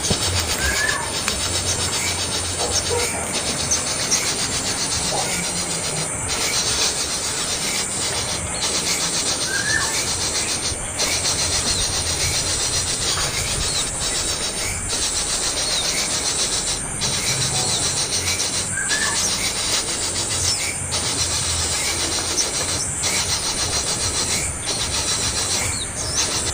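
Young songbird begging for food with harsh, continuous rasping calls that break off briefly about every two seconds.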